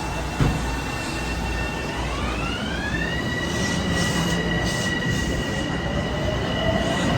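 Metro-North M7A electric multiple unit pulling out of the station, its propulsion whine rising in pitch about two seconds in and then holding steady over the low rumble of the train. A single knock comes just after the start.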